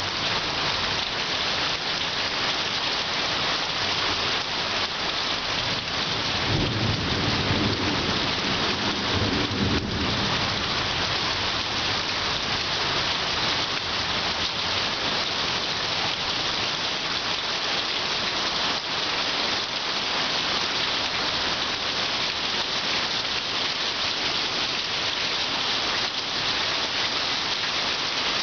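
Heavy rain pouring steadily in a severe thunderstorm, a dense even hiss. A low rumble swells in from about six seconds in and fades out by about ten seconds.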